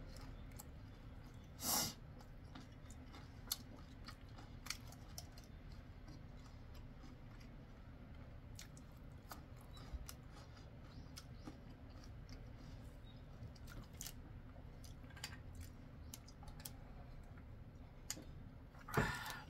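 Quiet chewing of crispy fried chicken, with a louder crunch about two seconds in and scattered small crunches and clicks. Near the end comes a brief louder sound as cola is sipped from a glass.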